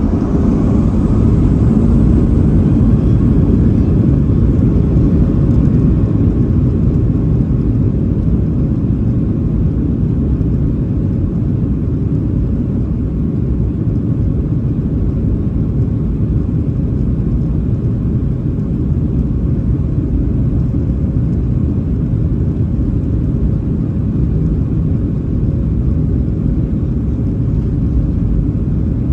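Boeing 737-700's CFM56-7B jet engines at takeoff thrust, heard inside the cabin as a loud, steady, low rumble. The rumble builds over the first couple of seconds, then holds level.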